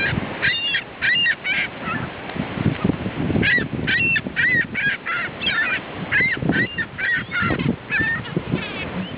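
A flock of birds calling over and over in short, harsh squawks: a brief run about half a second in, then a longer, crowded run from about three and a half to eight seconds in.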